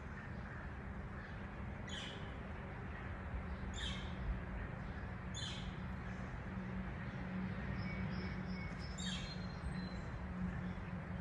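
A bird calling outdoors: four short, high chirps a couple of seconds apart, over a steady low hum and background noise.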